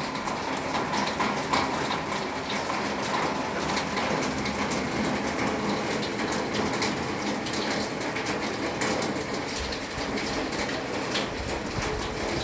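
Steady rain falling, with many small drop hits on nearby surfaces, and a faint low rumble near the end.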